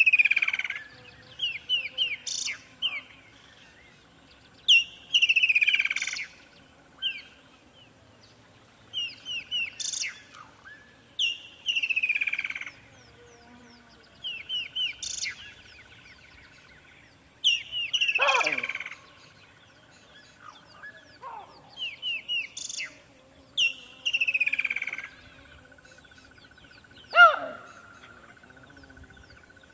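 Songbird singing a short phrase over and over, a few quick notes then a downward-sliding note, every three seconds or so, over a faint steady high buzz. Twice a louder call slides steeply down in pitch, the second one the loudest sound here.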